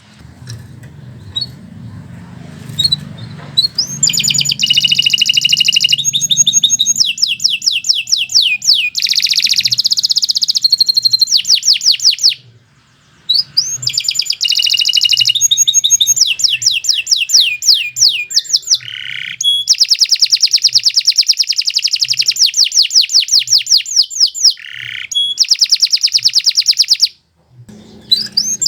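Domestic canary singing a long, continuous song of fast repeated trills and rolling notes, one run after another, with a brief pause about twelve seconds in and another near the end. A low hum sits under the first few seconds.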